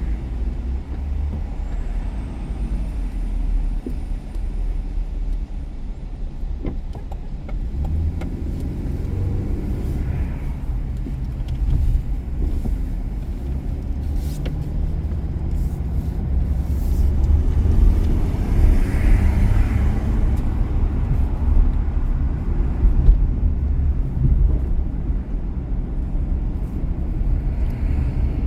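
Car driving on city streets: a steady low rumble of engine and tyre noise. The engine note rises about eight seconds in, as when the car pulls away or accelerates.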